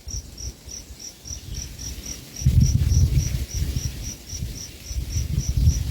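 An insect chirping steadily, short high chirps at one pitch about four a second. A loud, irregular low rumble on the microphone comes in about halfway through.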